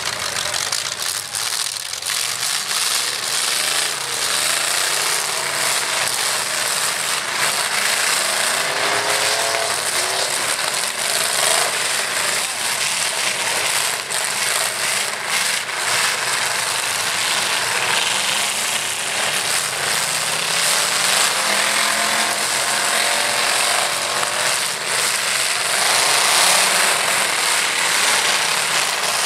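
Several demolition-derby pickup trucks' engines revving hard and rising and falling in pitch, with scattered crashes as the trucks ram each other.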